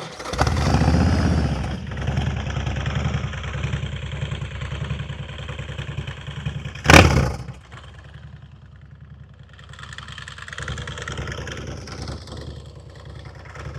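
ARCH KRGT-1 prototype's 124 cubic inch S&S V-twin running and revving, with one short, very loud blast about halfway through; after a quieter stretch the engine note rises again near the end.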